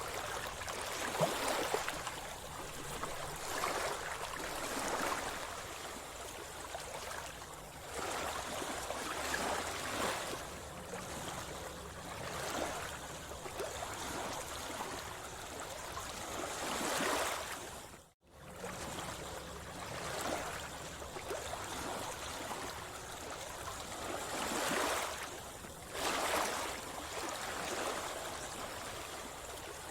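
Sea water splashing and lapping close by, swelling in surges every couple of seconds. It cuts out completely for a split second about two-thirds of the way through.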